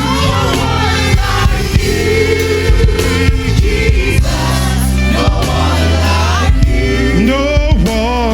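Live gospel praise music: singers with vibrato over a band with bass, keyboard and drums.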